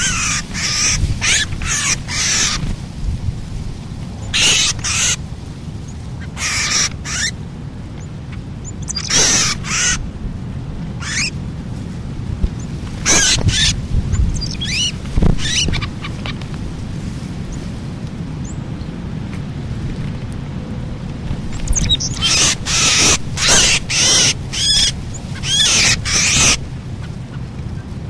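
Wild birds giving harsh calls in quick runs of three to six, repeated at intervals, with the longest run near the end, over a steady low rumble.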